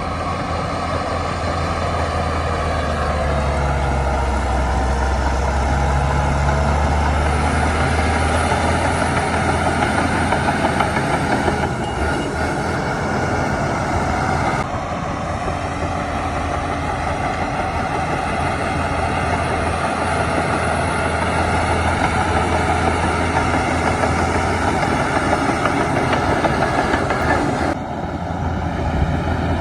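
Shantui DH17 crawler bulldozer's diesel engine running steadily with a low hum, over a continuous clatter of working machinery. The sound shifts abruptly three times.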